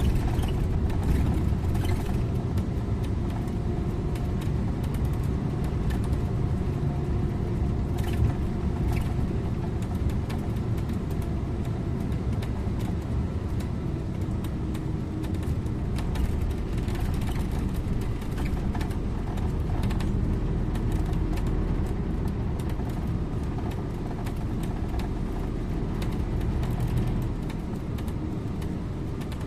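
Scania InterLink bus driving along the road, heard from the driver's position: a steady engine drone and tyre rumble with a few light clicks.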